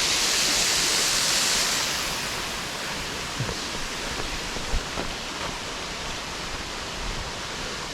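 Waterfall rushing as a steady hiss of falling water, louder for about the first two seconds and then settling a little softer.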